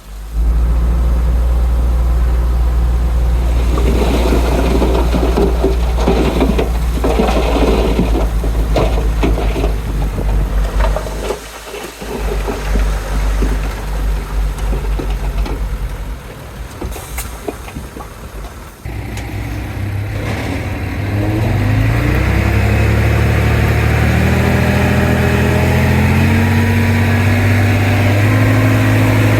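Heavy diesel engine of an earthmoving machine running hard, with clanking and scraping over the first part. About two-thirds of the way through, the engine note rises as it revs up, then holds at higher revs.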